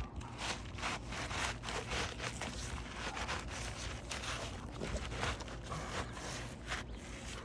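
Replacement asphalt roof shingle being slid and worked into place under the shingle courses above, scraping and rustling in many irregular strokes.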